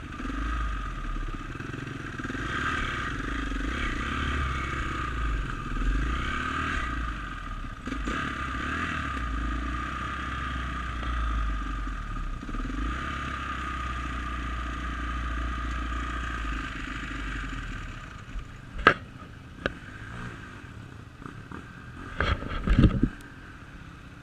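Dirt bike engine running as the bike is ridden, the revs rising and falling. About eighteen seconds in it drops to a lower level, and a few sharp knocks and clatters follow, the loudest near the end.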